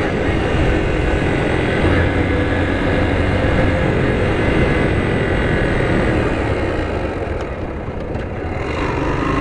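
Small-displacement motorcycle engine running at road speed under heavy wind rush. The engine eases off briefly near the end, then rises in pitch again.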